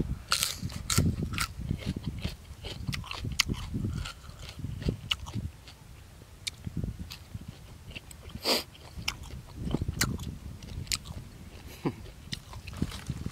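Close-up mukbang eating sounds: a man biting and chewing a mouthful of fresh lettuce leaves and boiled buffalo offal, with crunching and irregular sharp clicks of the mouth, one louder click past the middle.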